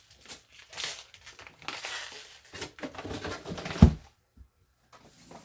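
Plastic packaging crinkling and rustling as spools of 3D-printer filament are handled and sorted, with one sharp knock a little under four seconds in.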